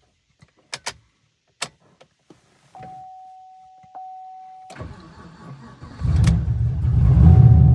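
Fifth-generation Chevrolet Camaro hot restart. A few sharp clicks, then a steady electronic tone for about two seconds. The starter cranks briefly and the engine catches about six seconds in and runs: a quick, easy hot start with the added engine ground cable fitted.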